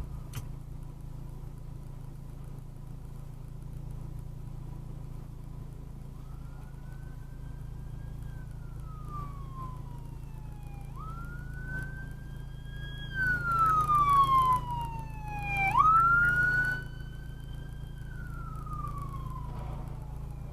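Emergency-vehicle siren in a slow wail, rising quickly, holding, then falling, about every five seconds, starting a third of the way in and loudest in the middle, with two loud rushes of noise. Under it runs the steady low drone of a car's engine and road noise.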